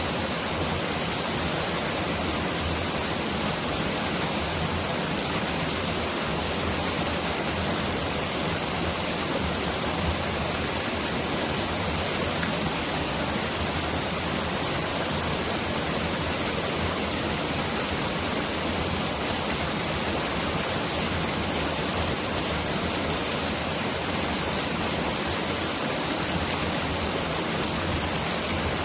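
Mountain valley stream rushing in a steady, even wash of water noise that sounds like heavy rain pouring down.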